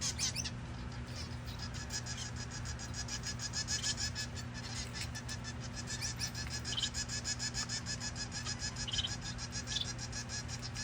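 Aviary finches calling in a dense chorus of rapid, high, nasal chirps, with a few louder calls standing out. A steady low hum runs underneath.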